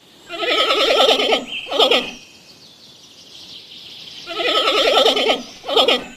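Wild turkey gobbling twice, each gobble a rapid rattling call of about a second and a half ending in a short extra burst.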